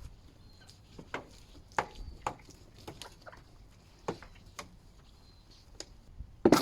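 Irregular light knocks and taps from cleaning gear being handled, with one sharper, louder knock near the end.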